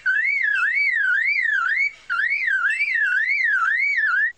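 Superb lyrebird mimicking a car alarm: a loud, whistled wail sweeping up and down a little over twice a second, in two phrases with a short break about two seconds in.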